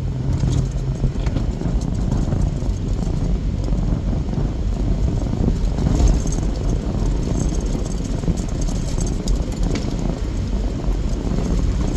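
Vehicle driving, heard from inside the cabin: a steady low engine and road rumble with no sharp events.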